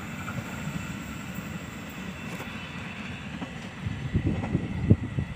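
Rumble of an Indonesian passenger train that has just passed, fading as it rolls away along the track. From about four seconds in, wind buffets the microphone in uneven gusts.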